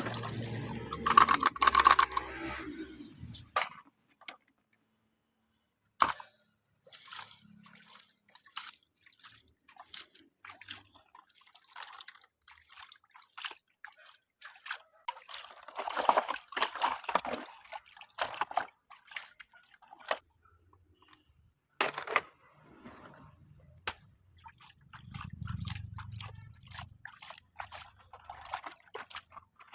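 Small toy vehicles handled in muddy water: scattered short splashes, drips and clicks. It opens with a louder stretch of sound in the first three seconds.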